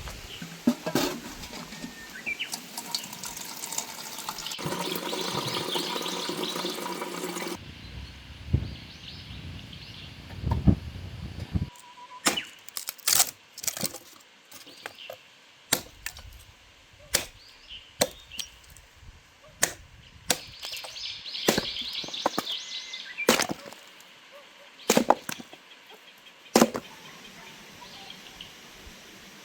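Wood being chopped: a series of sharp, separate chops every second or two, over a background that changes abruptly several times.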